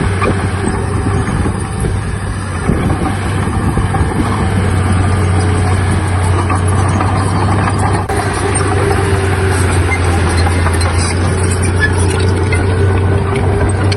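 Heavy diesel earthmoving machinery engine running steadily, with a faint whine coming and going in the second half and one sharp click about eight seconds in.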